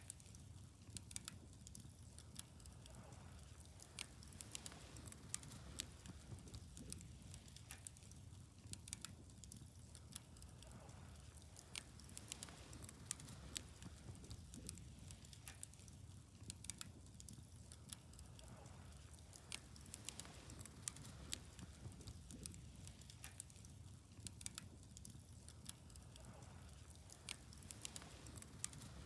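Wood fire burning, crackling with irregular sharp pops and snaps, a few each second and some louder than others, over a faint low rumble.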